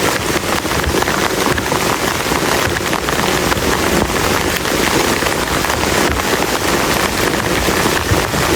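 Heavy rain falling steadily, a dense patter of drops drumming on a camp tarp.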